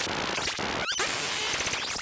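Lorre-Mill Double Knot synthesizer playing a noisy patch: a dense hiss with quick rising pitch sweeps, cutting out for an instant a little before a second in.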